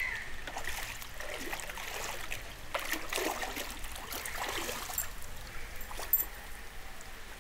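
Floodwater sloshing and trickling, with irregular splashes.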